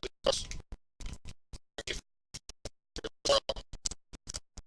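Choppy, broken-up recording audio that cuts out to dead silence several times a second, leaving only short scraps of sound between the gaps.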